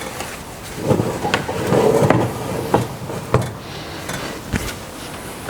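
Metal parts rack clanking and scraping as it is slid into a powder-coating oven: a handful of sharp metallic knocks, with a longer scrape about two seconds in.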